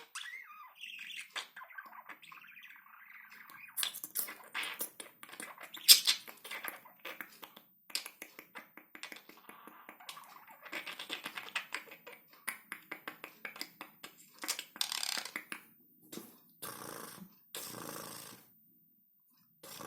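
Budgerigar courtship chatter: a fast, continuous warble of clicks, squeaks and chirps. A few short rushing bursts come near the end.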